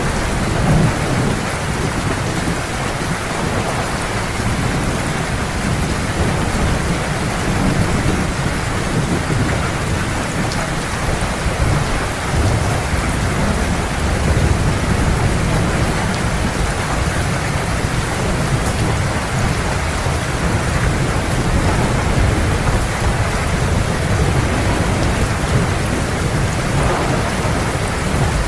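Heavy rain falling steadily, with thunder rumbling low and continuous underneath it, swelling and easing in waves.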